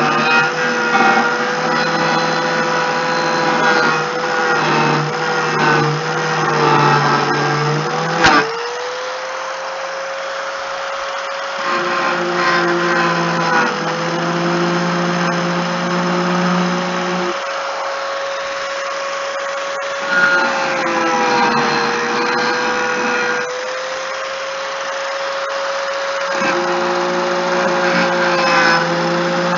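An electric power tool's motor running continuously with a steady whine that sags briefly in pitch several times, as though pressed into work, while a lower hum comes and goes in stretches of a few seconds.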